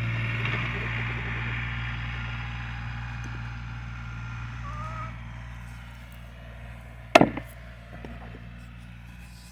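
Engine running with a steady hum that grows fainter, and a single sharp knock about seven seconds in.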